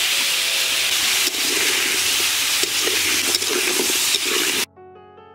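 Potatoes frying in hot oil: a steady sizzle with small clicks of stirring. About four and a half seconds in, it cuts off and quiet piano music begins.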